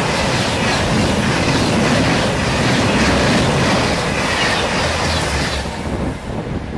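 Passenger train passing close by at speed, its coaches running over the rails with a loud steady rush. The noise fades as the last coach goes by, about six seconds in.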